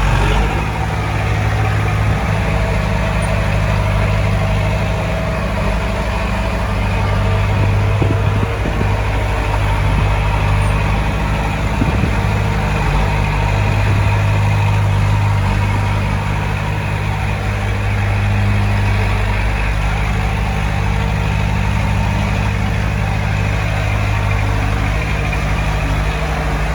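Heavy diesel engine of earthmoving machinery running steadily, with a few faint knocks about a third of the way in.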